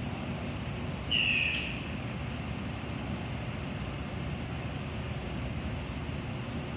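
Metra commuter train running, a steady noise throughout, with one short high-pitched squeal about a second in.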